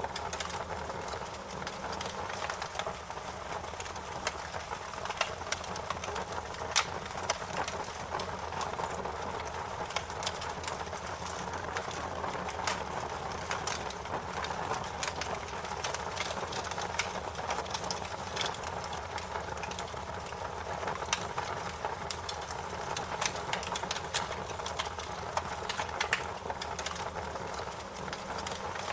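Wood fire burning, with a steady low rush of flames and many irregular sharp crackles and pops throughout.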